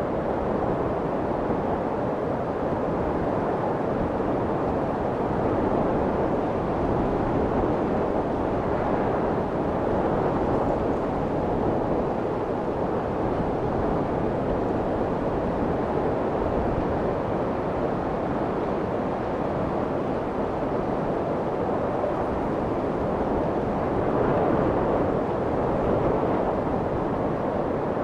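Steady white-noise track for lulling a baby, weighted toward the low end so it sounds deep and muffled, with slight slow swells in level. It is meant to imitate the sound of the womb.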